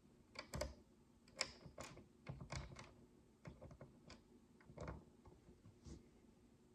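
Tiny plastic micro building bricks being handled and pressed together: an irregular run of about a dozen soft clicks and taps.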